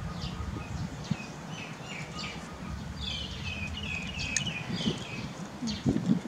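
Small birds chirping repeatedly in short, falling notes, busiest in the middle, over a low background rumble. A brief louder low sound comes near the end.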